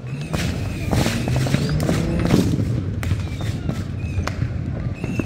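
Fireworks going off, with several booms and sharp cracks and the loudest about two and a half seconds in, while music plays at the same time.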